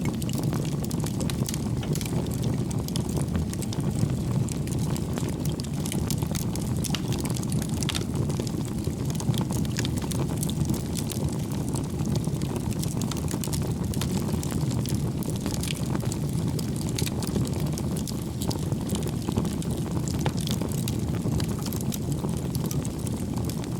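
Wood fire burning in a fireplace: a steady low rumble of flames with frequent small, sharp crackles and pops from the burning firewood.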